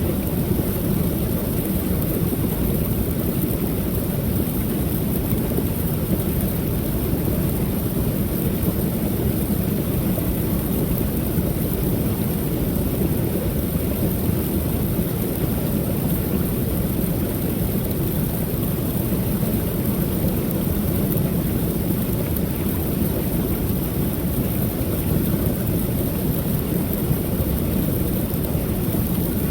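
Creek waterfall pouring steadily: a constant deep rush of falling water.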